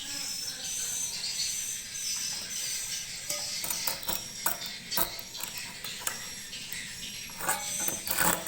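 Swiftlets chirping high and continuously inside a swiftlet house, with many sharp, irregular clicks from about three seconds in.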